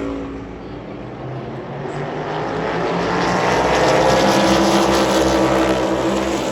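NASCAR Cup Series cars' V8 engines at full throttle passing at speed. The sound is low about a second in, then builds over the next few seconds as more cars draw near, and holds loud with a steady engine note.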